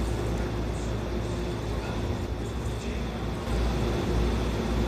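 Steady low rumble and hum of a train, growing a little louder about three and a half seconds in.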